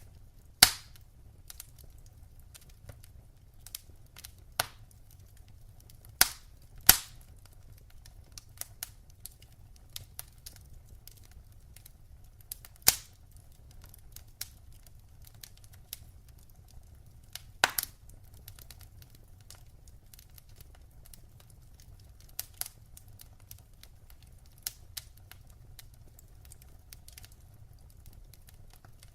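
Wood fire in a fireplace crackling: many small irregular crackles and a handful of sharp loud pops over a low steady rumble.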